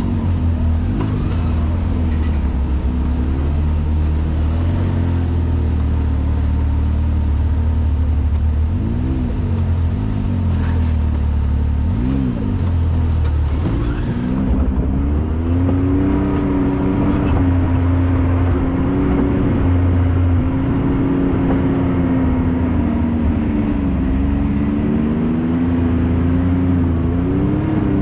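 Off-road vehicle engine running under load, its pitch rising and falling as the throttle is worked on and off.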